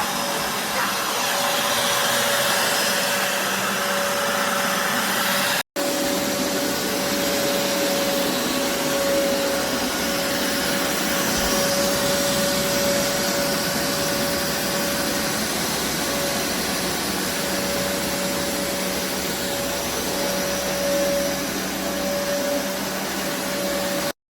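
BISSELL Revolution HydroSteam Pet carpet cleaner running steadily: the suction motor's whoosh with a steady whine over it. The sound breaks off for an instant about six seconds in, then carries on.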